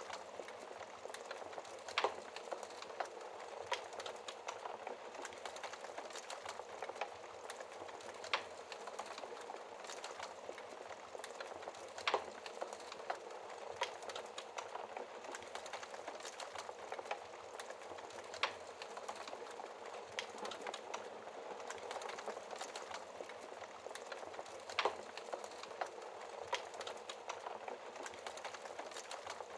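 Wood fire crackling in a fireplace: a steady soft hiss with dense small crackles, and a louder sharp pop every few seconds, about five in all.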